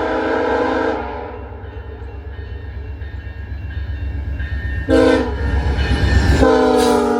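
VIA Rail F40 diesel locomotive sounding its multi-chime horn as it approaches at speed: a long blast ending about a second in, a short blast near five seconds, then a long blast that drops in pitch as the train passes. This is the long-long-short-long grade-crossing signal. Under the horn, the rumble and rush of the train build up to the pass.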